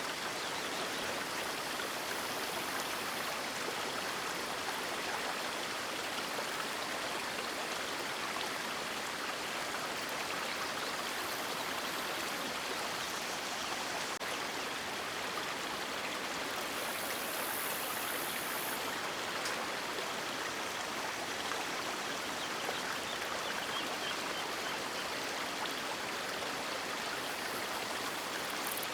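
River water rushing and splashing in a steady, unbroken stream.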